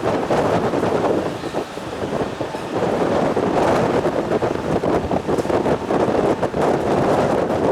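Strong gusty wind buffeting the microphone, a loud rough rumble that rises and falls, dipping briefly about a second and a half in.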